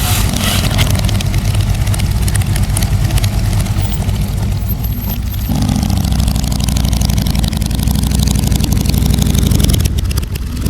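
Motorcycle engines running steadily, with a change in the engine note about halfway through.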